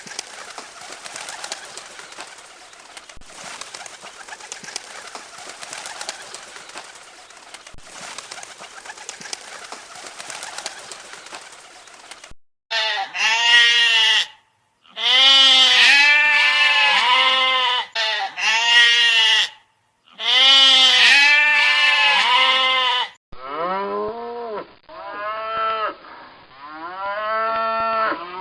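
About twelve seconds of steady, hiss-like background. Then loud bleating calls in several bouts, each rising and falling in pitch. Near the end come lower, repeated calls.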